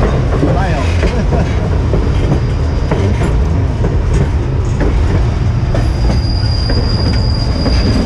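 White Pass & Yukon Route narrow-gauge passenger cars rolling along the track, heard from an open end platform: a steady rumble with wheels clicking over the rails. About six seconds in, a thin high wheel squeal comes in and holds for about two seconds.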